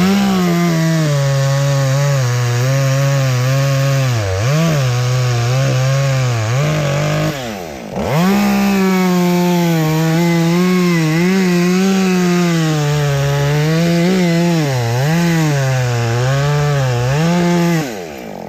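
Chainsaw cutting through red oak, its pitch sagging and wavering as the chain works under load in the cut. About halfway through the throttle drops off briefly, then it revs back up and keeps cutting until it eases off near the end.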